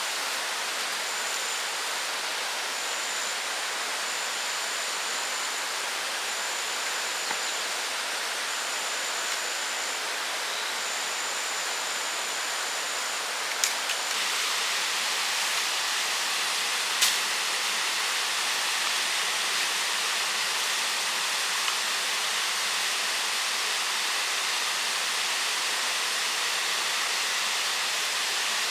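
Steady, even rushing noise, with a faint high tone repeating in short dashes over the first half and two sharp clicks near the middle.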